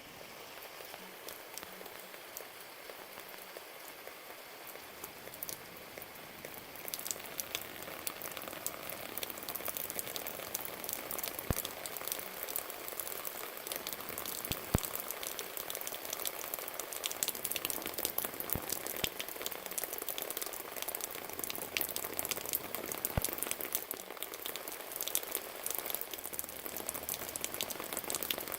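Rain falling, a steady hiss full of small, crisp drop ticks, which grows louder over the first several seconds.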